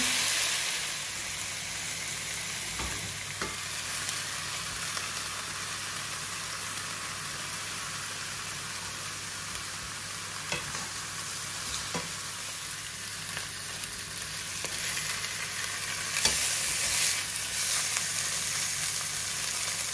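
Steaks searing in a hot frying pan, a steady sizzle with a few light knocks; the sizzle grows louder about 16 seconds in.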